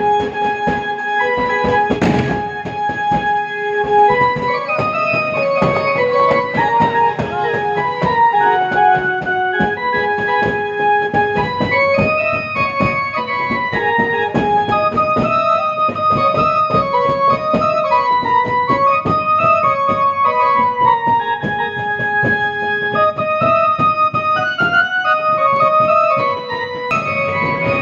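Electronic keyboard playing a bhajan melody in held notes, with a steady percussion beat underneath.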